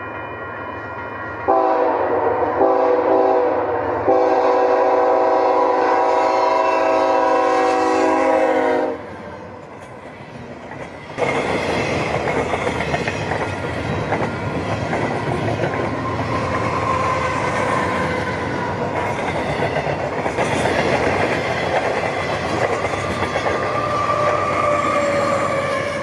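CP freight train locomotive's air horn blowing for the crossing from about a second and a half in, briefly broken twice and then held until about nine seconds in. From about eleven seconds in comes the steady rumble and clickety-clack of double-stack container cars rolling past.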